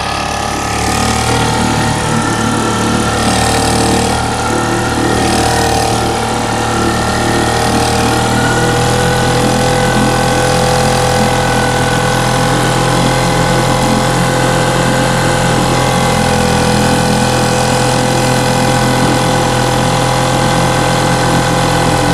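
A small boat's engine running steadily under way, its pitch rising slightly a few seconds in and then holding.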